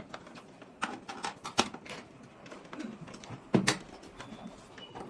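Scattered sharp clicks and knocks of hard plastic parts being handled and fitted on an air-conditioner indoor unit during reassembly, the loudest about a second and a half in and again past the three-and-a-half-second mark.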